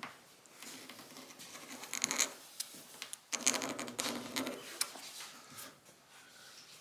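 Razor blade scraping a paint run out of hard, cured automotive clear coat, in a few uneven strokes.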